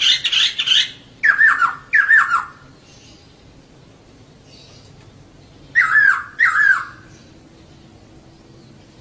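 Female poksay (laughingthrush) calling: a short harsh chatter at the start, then two pairs of short downslurred calls, one pair a second or two in and another about six seconds in.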